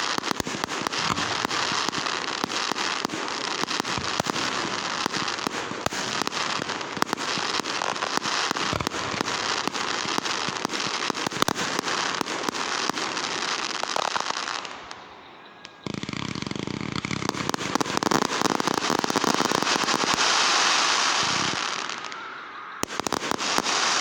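Fireworks crackling: a dense, rapid run of pops that goes on for about fifteen seconds, dies down briefly, then picks up again for another long stretch. A short gap comes near the end, followed by one more burst.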